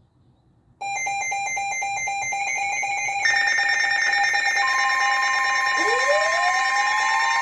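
Weather radio alert tones before a severe thunderstorm warning. A fast pulsing electronic alarm starts about a second in. Steady high tones take over a couple of seconds later, a steady tone near 1 kHz joins them, and a tone sweeps upward near the end.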